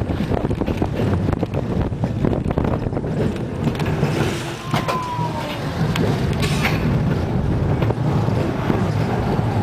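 Steady low rumble of a vehicle engine, with frequent crackles and a brief thin tone about five seconds in.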